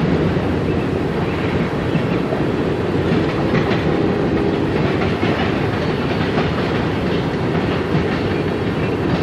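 Tail end of a CSX manifest freight train rolling past, steel wheels clattering steadily on the rails.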